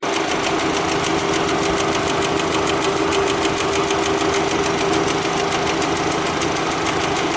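Audi TFSI engine idling with a rapid, even tick-tick-tick hammering from the rear of the valve cover, a lifter-type noise. It was traced to an exhaust cam follower knocked out of position, which the mechanic puts down to a collapsed hydraulic lash adjuster.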